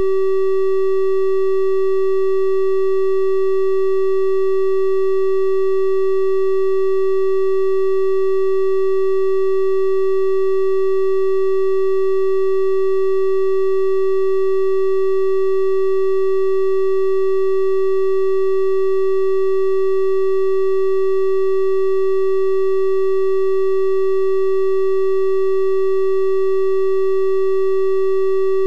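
A steady, unchanging synthesized 384 Hz triangle-wave tone, a pure-sounding hum with faint higher overtones above it.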